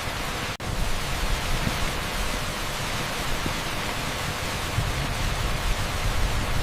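Torrential rain pouring onto an asphalt street: a dense, steady hiss, broken by a split-second dropout about half a second in.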